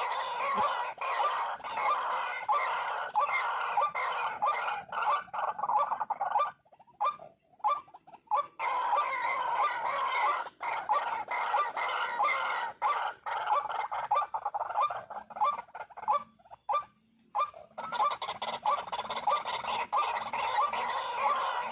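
White-breasted waterhen (ruak-ruak) calling: a fast, near-continuous run of harsh repeated notes, breaking off twice for a second or two.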